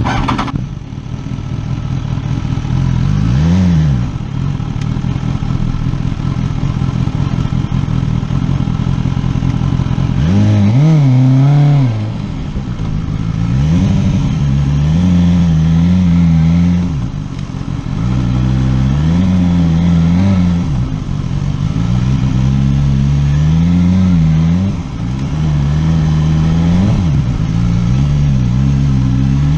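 Motorcycle engine running continuously, its pitch climbing and dropping back again and again as the throttle is opened and closed, with a few stronger rev surges.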